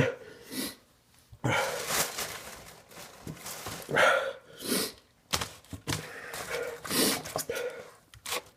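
Irregular throaty grunts and heavy breaths from a person struggling to get down a mouthful of food, coming in short bursts with brief pauses between.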